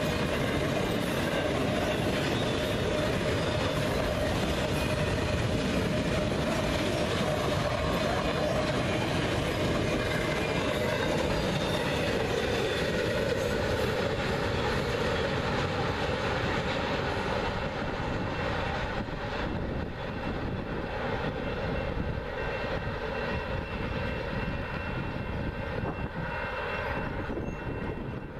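Ringling Bros. circus train of loaded flatcars rolling past on the rails: a steady rumble of steel wheels on track that grows somewhat quieter in the last third as the train moves away.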